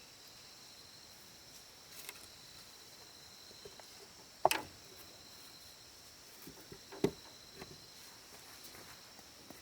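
Steady high buzz of insects, crickets among them, with a few sharp knocks; the loudest comes about halfway through and a second strong one a little later.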